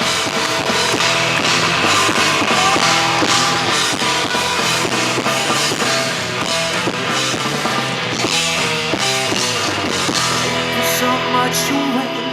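Live rock band playing loudly, with drum kit and guitar, in a passage without singing; the recording overloads, so the sound is distorted and clipped.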